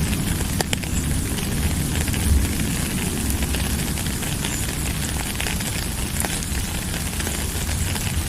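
Steady rain falling, an even hiss with a low rumble underneath and a few sharp drip ticks.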